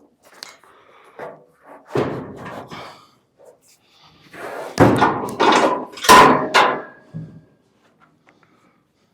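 Heavy thuds and knocks of the steel truck cab being shifted into place on the frame: one about two seconds in, then a louder cluster of four or five knocks between about five and seven seconds in.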